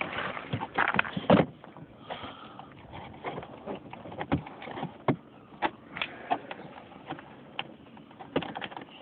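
Hand work on a snowmobile exhaust: a rustling clatter of parts being handled in the first second and a half, then scattered sharp clicks and knocks of tools and metal parts.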